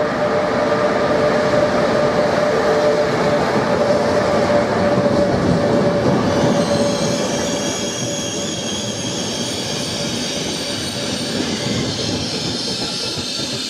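InterCity Notte passenger train arriving: the locomotive rolls past with a steady hum, then from about halfway the coaches slow with a high-pitched squeal of brakes and wheels as they draw in.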